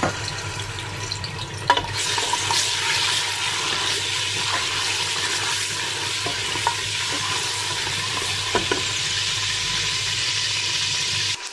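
Ginger-garlic paste cubes sizzling in hot oil in an aluminium pressure cooker, stirred with a spatula that gives a few light taps against the pan. The sizzle swells about two seconds in and then holds steady as the cubes fry.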